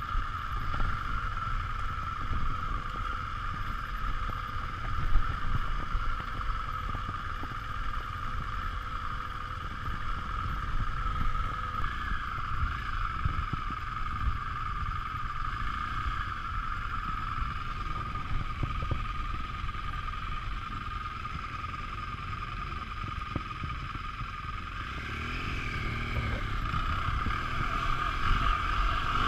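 BMW R 1200 GS LC boxer-twin motorcycle engine running at low revs, muffled, with wind rumble and a steady whine over it; the revs climb near the end.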